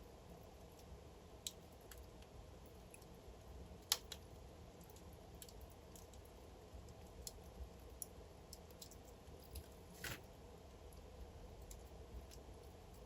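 Wood fire burning in a fireplace, faintly crackling: irregular sharp pops over a low steady rumble, the loudest pop about four seconds in and a slightly longer crackle around ten seconds.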